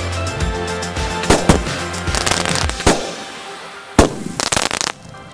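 Fireworks banging and crackling at irregular intervals over background music. The music's bass drops away about halfway through, and a sharp single bang stands out about a second later.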